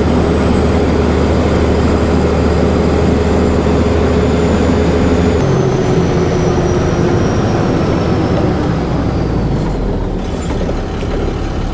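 Loaded dump truck running, heard with a steady engine hum. The engine note steps down suddenly about five seconds in, and a high whine then falls slowly in pitch as the truck slows to a stop.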